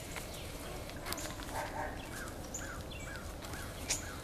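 Wild birds chirping and calling: several short, sharp high chirps, and a run of about five quick rising-and-falling notes in the middle, over a low steady rumble.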